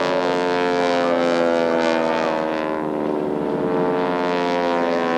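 Stearman biplane radial engine and propeller droning steadily overhead, the pitch drifting slightly as the aircraft manoeuvres.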